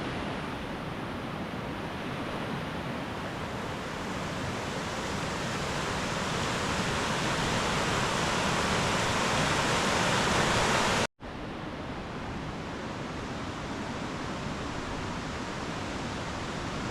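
Steady rush of fast-flowing stream water, growing louder over the first ten seconds. It breaks off abruptly about eleven seconds in, then carries on more quietly.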